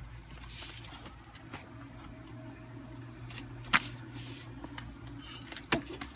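Handling of paper comic books: a soft rustle near the start and a couple of sharp taps later on, over a low steady room hum.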